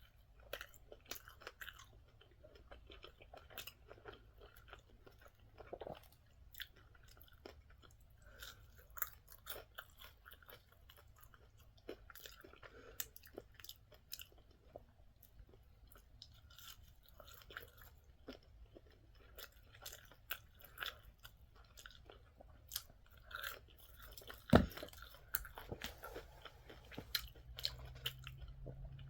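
Close-miked eating: a person chewing and crunching fried food, with many small irregular crackles and mouth clicks. One sharper knock comes about three-quarters of the way through.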